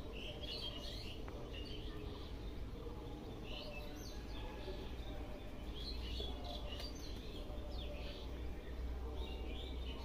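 Small birds chirping in short, scattered bursts of high notes, over a steady low rumble.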